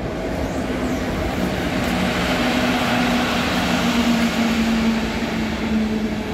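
Intercity train hauled by a PKP EP09 electric locomotive running past: a steady rumble of wheels on rail with a droning hum, growing a little louder through the middle.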